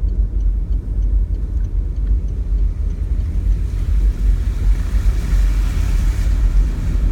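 Truck driving through deep floodwater, heard from inside the cab: a steady low rumble of the engine and road, with a wash of water noise that builds from about three seconds in.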